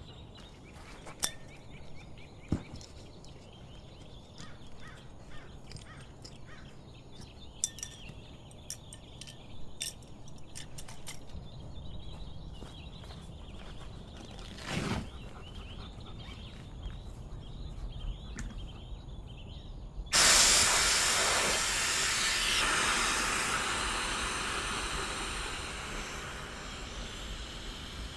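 Quiet outdoor ambience with small clicks and faint bird chirps. About two-thirds of the way through, a loud hiss starts suddenly and fades away over several seconds.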